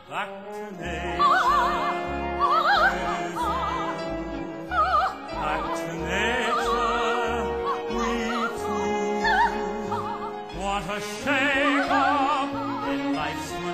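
Show tune sung in an operatic style with wide vibrato, accompanied by a theatre orchestra holding sustained notes over bass notes on a steady beat of about two a second.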